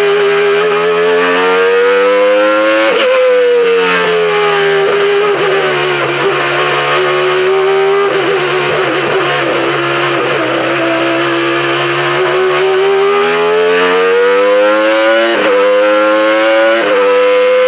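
Renault Espace F1's 3.5-litre Renault RS5 V10 Formula One engine at high revs. The note climbs, falls away slowly as the revs drop, then climbs again, with two sharp breaks in the note near the end.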